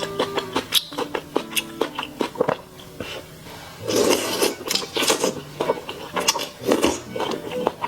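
Close-miked eating sounds of a person chewing food. Quick wet smacking clicks come first, then after a short lull a run of louder crunchy bites and chews about a second apart.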